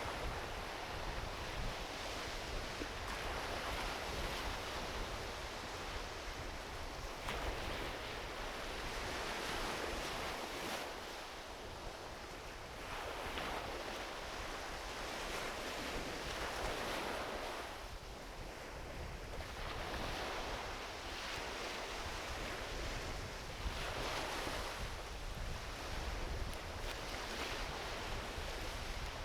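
Small ocean waves washing onto a beach, rising and falling in surges every few seconds, with low wind rumble on the microphone.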